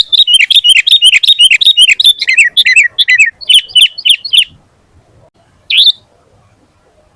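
Sooty-headed bulbul (kutilang) singing vigorously, a fast run of short, sliding, chattering notes for about four and a half seconds, then a single call a second later.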